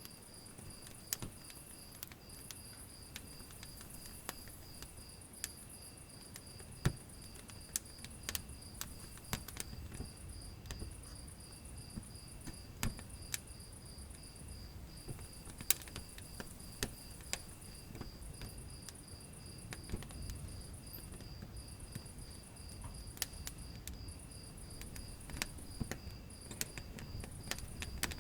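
Wood fire in a fireplace crackling, with irregular sharp pops over a low, soft rumble. A steady, high, rapidly pulsing trill runs under it.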